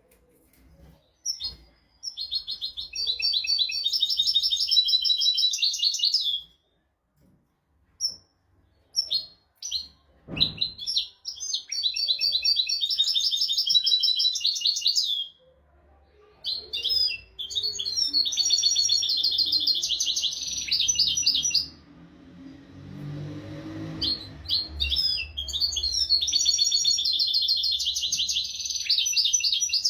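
European goldfinch singing: four long runs of rapid, twittering trilled phrases, each several seconds long, separated by short pauses.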